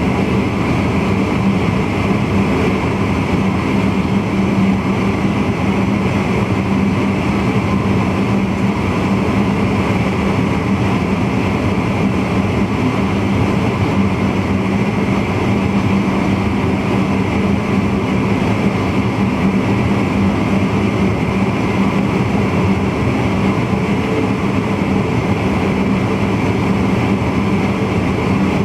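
NS VIRM double-deck electric intercity train running steadily along the line, heard from the driver's cab: an even rumble of running noise with a steady low hum.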